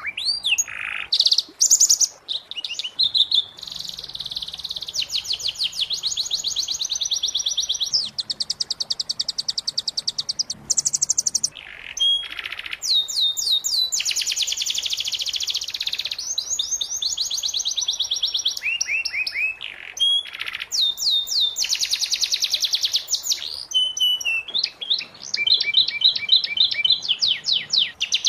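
Domestic canary singing a long run of fast trills and rolls of rapidly repeated notes, phrase after phrase with only brief pauses between them.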